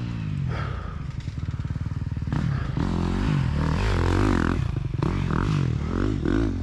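Dirt bike engine revving unevenly, its pitch swinging up and down as the throttle is worked, loudest about halfway through.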